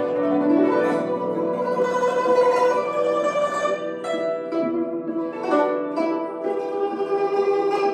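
Guzheng playing a melody of plucked notes that ring on, several notes a second.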